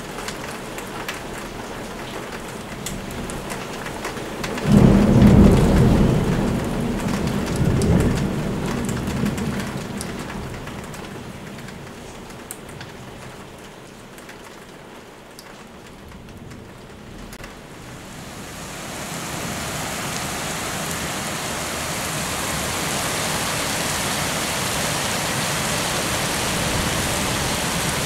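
Summer thunderstorm: steady rain falling, with a sudden loud clap of thunder about five seconds in that rumbles, swells again and dies away over several seconds. Later the rain grows heavier.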